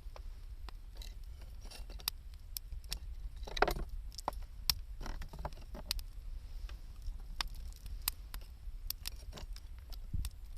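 Wood campfire crackling, with scattered sharp pops and a louder crunching rustle about three and a half seconds in, over a steady low rumble.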